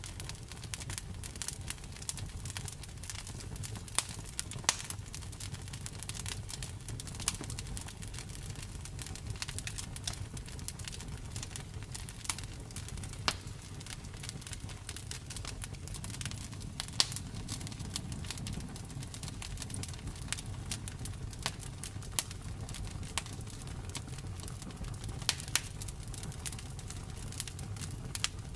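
Wood fire burning steadily, with a low rumble of the flames and frequent sharp, irregular crackles and pops of the wood.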